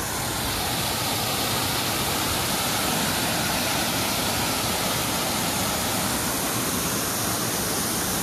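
Water pouring over a small waterfall, a steady, even rush.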